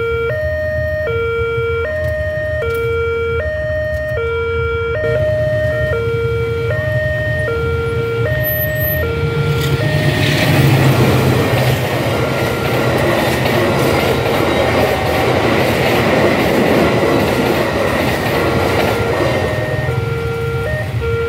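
Railway level-crossing warning alarm sounding an electronic two-tone signal, alternating high and low notes each held about half a second. About ten seconds in, a passing train's rushing rumble swells up over the alarm and carries on to the end.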